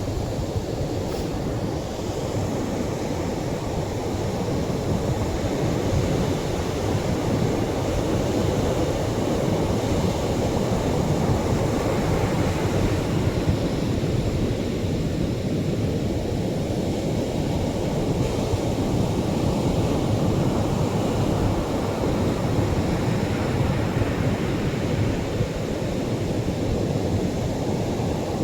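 Ocean surf breaking on a beach, in the stronger-wave stretch of the recording. It is a continuous deep rush that swells and eases gently, with no single crash standing out.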